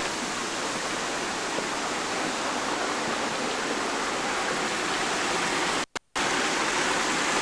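Steady rush of water from a waterfall, an even unbroken noise, with a brief total dropout about six seconds in.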